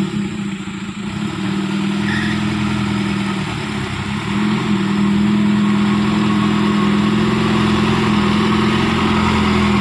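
Engine of an overloaded palm-fruit truck pulling under heavy load, a steady drone that gets louder about five seconds in as the engine works harder.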